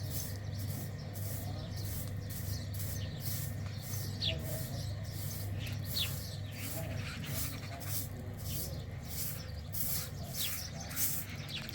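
Birds giving short chirps now and then over a steady low hum, with a high hiss pulsing about twice a second.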